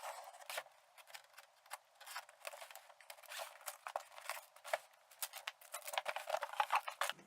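Kitchen knife slicing and scraping through packing tape on a cardboard shipping box: a faint run of short, irregular scratchy clicks and scrapes.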